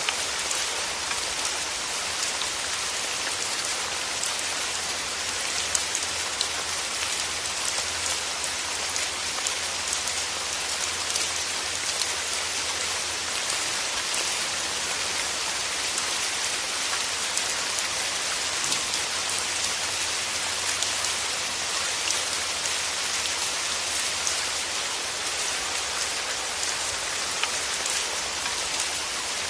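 Steady rain falling, an even hiss made of many fine drop patters, with no thunder.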